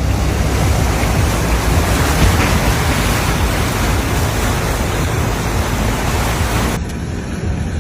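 Steady, loud rushing noise of a torrential storm downpour. Near the end it changes abruptly, becoming duller and a little quieter.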